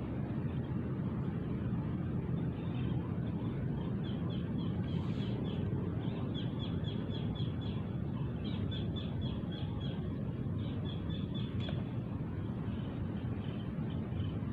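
A small bird calling in rapid runs of short, high chirps, about five a second, over a steady low outdoor rumble.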